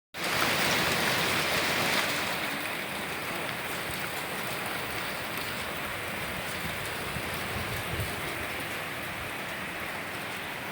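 Hail falling in a storm, a dense hiss of countless small hits on surfaces, louder for the first two seconds and then steady.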